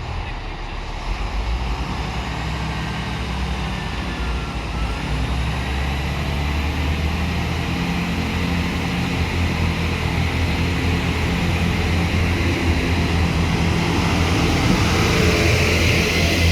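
Diesel train engine running steadily with a deep drone, getting gradually louder.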